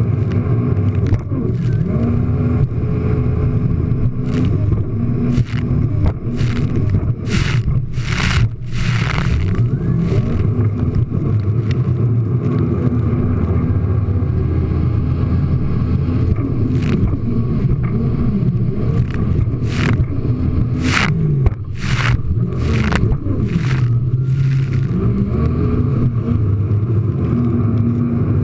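Jet ski engine running hard, its pitch rising and falling again and again as the throttle is worked over the waves. Short rushing bursts of noise cut in many times, bunched a third of the way in and again past two thirds.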